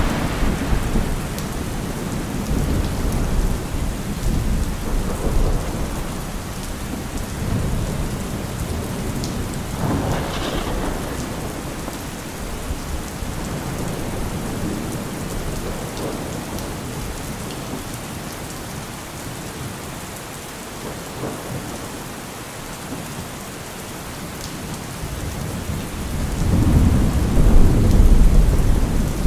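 Heavy rain falling steadily, with thunder rumbling through it. The rumbles swell at the start, again about a third of the way in, and loudest near the end.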